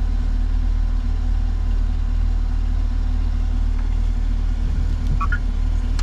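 2021 Camaro 2SS's 6.2-litre V8 idling steadily, a constant low rumble.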